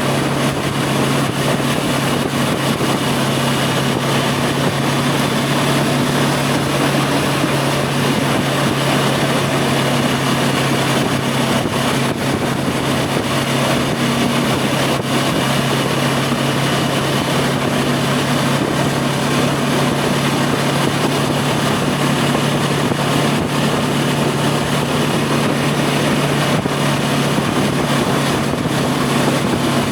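2025 Voge 525 DSX's parallel-twin engine running at a steady cruise, its pitch holding level, over a constant rush of wind and road noise.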